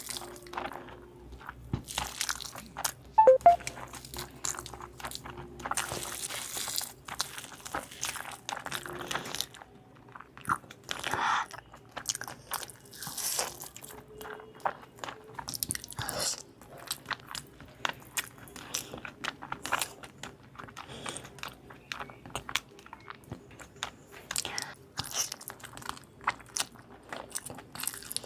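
Close-up eating sounds: a person biting into and chewing crunchy fried chicken, with irregular crunches and wet chewing throughout. One sharper, louder click comes about three seconds in.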